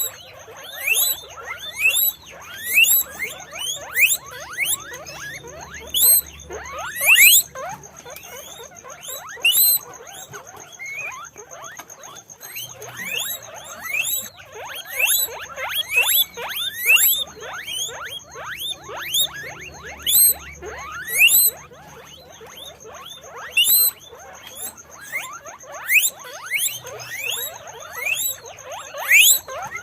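Guinea pig squeaking: short, high, sweeping squeaks repeated in quick clusters, several a second, with brief pauses between bursts.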